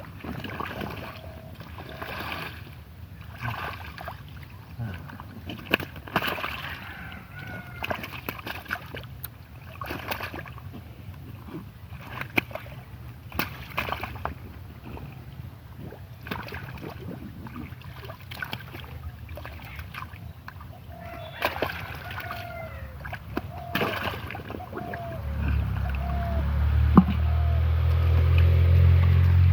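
Muddy river water splashing and sloshing in irregular bursts as hands work through it, with a few short high chirps in between. About 25 seconds in, a steady low rumble comes in and grows louder.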